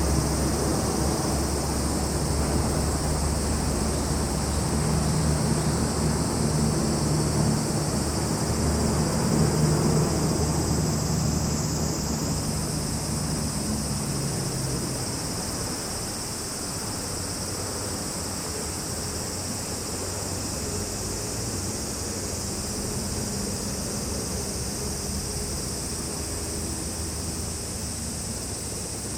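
Steady high-pitched chorus of summer insects such as cicadas and crickets, with a distant low engine rumble that fades away about halfway through.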